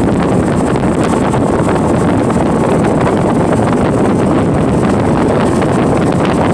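Tour boat's motor running at speed, with loud, steady wind noise buffeting the microphone.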